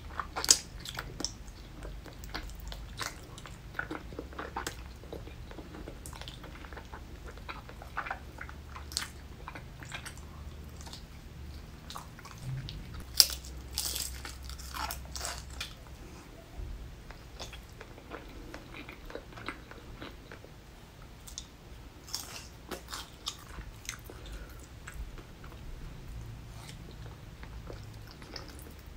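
Close-miked eating sounds of spicy tteokbokki: wet chewing and biting of chewy rice cakes and fried potato pieces, with many sharp smacks and clicks and some crunching.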